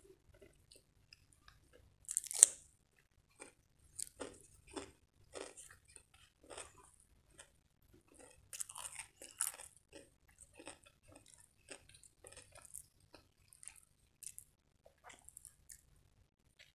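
A close-miked crisp bite into a fresh cucumber slice, loudest about two seconds in, then crunchy chewing at about two chews a second.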